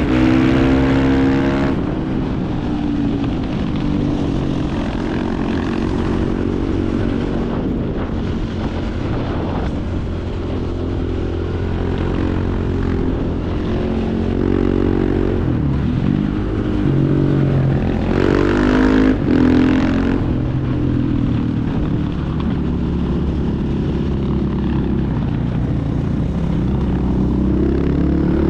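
Single-cylinder four-stroke supermoto motorcycle engines running hard, the revs rising and falling again and again as they accelerate, shift and back off, over a rush of wind noise.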